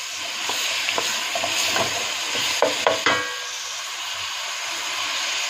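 Sliced leeks sizzling in hot olive oil in a stainless steel pot, stirred with a wooden spoon that knocks and scrapes against the pot several times in the first three seconds. After that the frying goes on as a steady sizzle.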